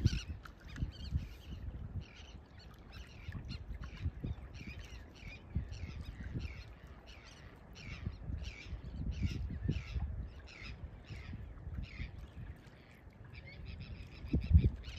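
A bird calling over open water: a long series of short, sharp calls, about two a second, followed near the end by a buzzy, rattling call. Wind rumbles on the microphone underneath.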